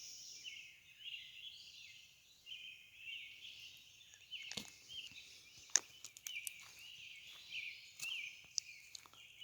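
Dawn chorus of songbirds: many overlapping short chirps and warbles, faint, with a few sharp clicks around the middle.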